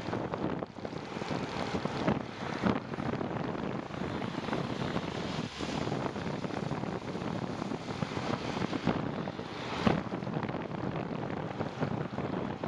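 Wind blowing across the microphone, a steady rushing noise with a few short knocks.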